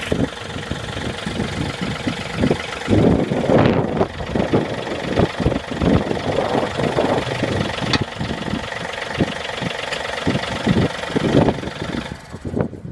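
A John Deere compact tractor's diesel engine running, with repeated irregular clunks and knocks and a few louder bursts while the front end loader is worked back onto the tractor. The engine sound drops away near the end.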